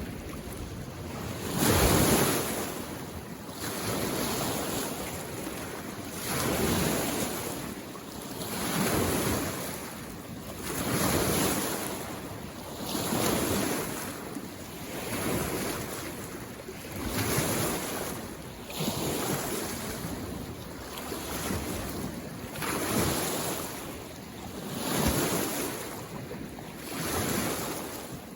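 Small lake waves washing onto the shore in a steady rhythm, one swell of splashing water about every two seconds.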